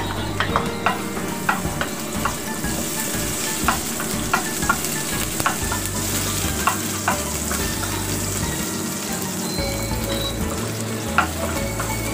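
Minced garlic and onion sizzling in hot oil in a wok, with a steady hiss. A wooden spatula stirs through it, scraping and tapping against the pan in short irregular clicks.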